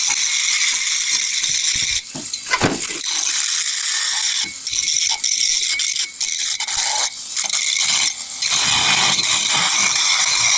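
Power grinder grinding metal exhaust pipe, a steady high-pitched hiss that breaks off and picks up again several times in the middle.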